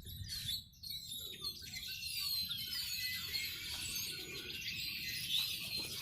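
A large flock of red-winged blackbirds calling all at once, a continuous chorus of many overlapping chirps and whistled calls. The birds are scolding a person at their feeder.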